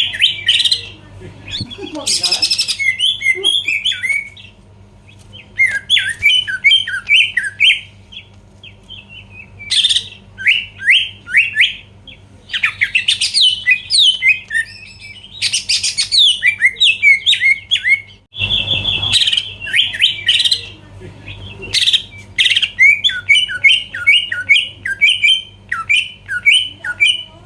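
Greater green leafbird (cucak ijo) in full song: bursts of quick, sliding whistled notes a few seconds long, separated by short pauses and broken by harsh chattering calls. A faint steady electrical hum runs underneath.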